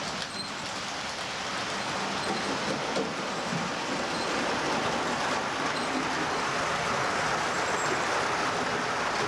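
Train rolling along the track: a steady rushing rumble of wheels on rail that grows slightly louder.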